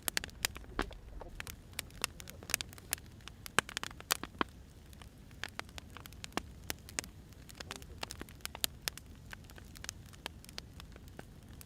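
Wood fire crackling: irregular sharp pops and snaps of varying loudness over a faint steady hiss.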